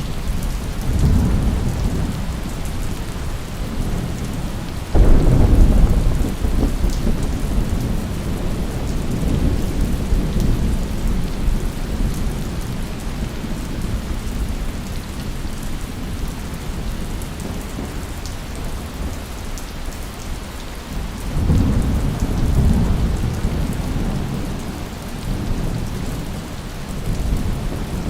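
Steady rain falling with thunder. A sudden thunderclap comes about five seconds in and rolls off over a few seconds, and a long low rumble of thunder swells and fades later on.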